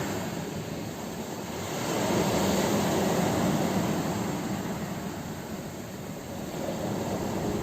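Ocean waves washing onto a shore, a steady rushing surf that swells and eases, loudest about two to three seconds in and building again near the end.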